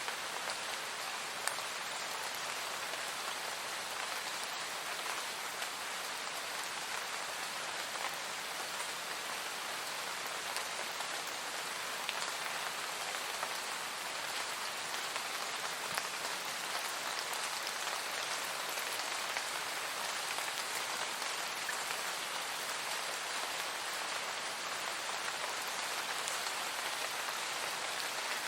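Steady, even rain falling on a surface, with faint scattered drop ticks.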